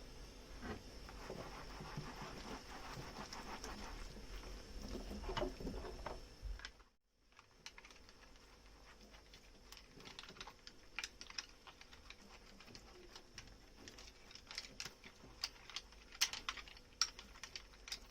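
Dishwashing sounds: a sponge working through soap foam on dishes with many small clicks and taps of tableware, a short break about seven seconds in, then sparser light clicks.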